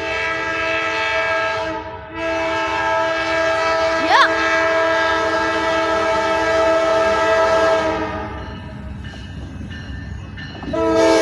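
An Amtrak locomotive's Nathan K5LA five-chime air horn sounds a long chord, breaks off briefly about two seconds in, then sounds another long blast that ends about eight seconds in, with the passing train's rumble beneath. A further blast begins near the end.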